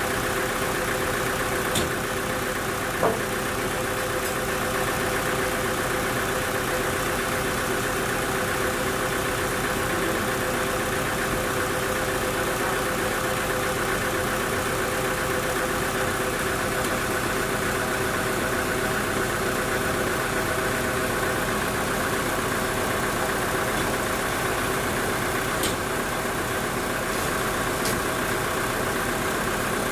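Sawmill machinery running steadily, an even engine-like hum with a few sharp clicks or knocks, the loudest about three seconds in.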